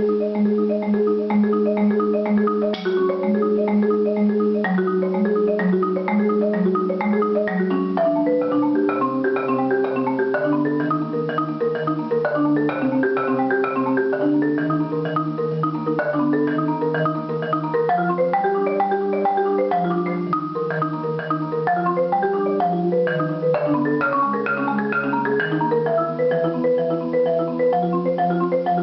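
Solo marimba playing a steady stream of rapid mallet notes over a sustained low rolled line, with the lower line stepping down in pitch about a third of the way in and coming back up near the end.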